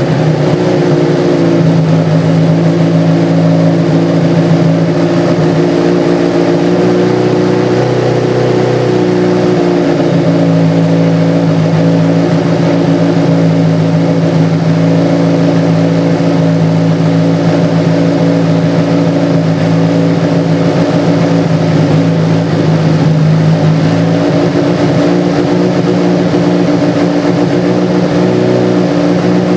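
Classic Mini race car's four-cylinder engine, breathing through four individual throttle bodies, idling loud and steady with a slight wavering in pitch now and then.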